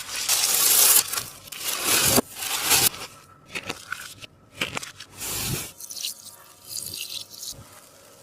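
A sticky taba squishy, a homemade tape-covered squishy, being pressed and squeezed by hand, giving a series of crackling, sticky handling noises. The loudest come in the first three seconds; later ones are softer.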